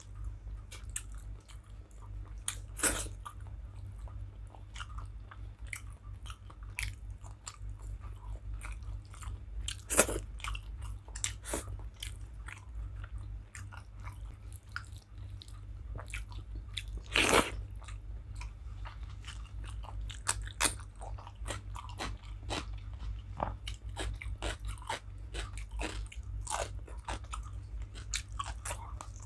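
Close-up eating sounds: a person chewing and biting food, with many short crunches and wet mouth clicks, a few louder crunches about 3, 10 and 17 seconds in. A steady low hum runs underneath.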